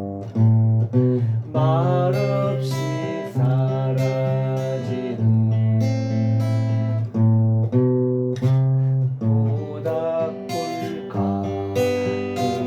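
Acoustic guitar music: chords and notes plucked and strummed in a steady run.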